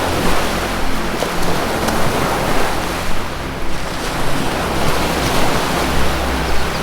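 Ocean surf: waves washing in a continuous, swelling rush, with a low steady hum of tones underneath.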